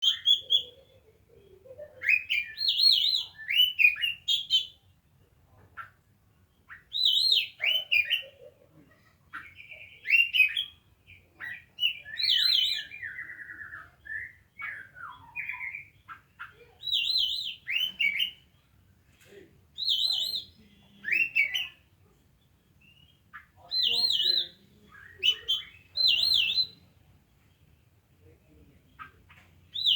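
Oriental magpie-robin (kacer) singing: short phrases of loud whistles and warbles, each about a second long, repeated after pauses of one to two seconds.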